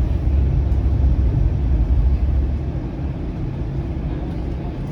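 Steady low rumble of a Flexity Outlook low-floor streetcar running along the line, heard from inside the car; it eases off slightly a little past halfway.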